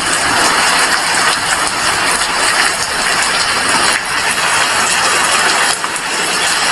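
Heavy rain falling steadily, a loud, even hiss of many drops.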